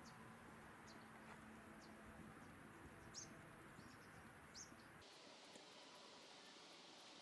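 Faint outdoor background with a few short, high bird chirps, four in the first five seconds; the background changes abruptly about five seconds in.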